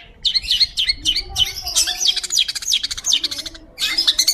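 Long-tailed shrike (pentet) singing loudly: a fast, unbroken string of sharp chirps and short downward-sliding whistles, with a brief pause a little after three seconds.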